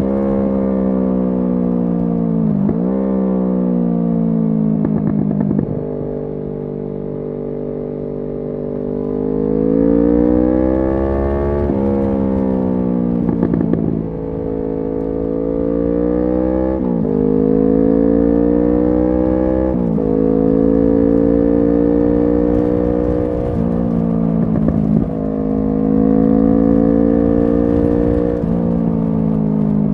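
Kawasaki Z650's 649 cc parallel-twin engine running through an SC Project aftermarket exhaust as the bike accelerates. The pitch climbs steadily, then drops sharply at each gear change, about eight times.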